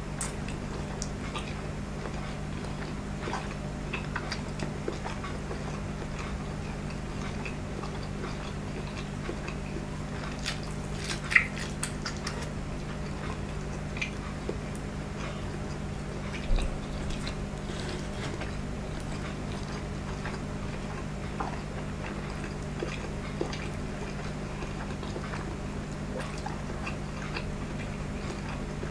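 Close-miked chewing and biting of a slab of uncooked Korean luncheon meat, with soft wet mouth clicks scattered throughout over a steady low hum. A sharp click comes about eleven seconds in and a low thump a few seconds later.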